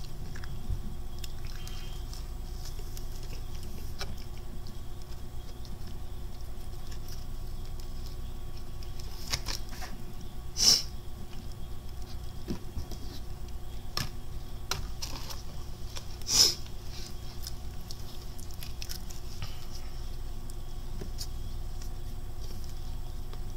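A person chewing crispy fried chicken, with soft mouth clicks and two louder crunches, about ten and sixteen seconds in, over a steady low hum.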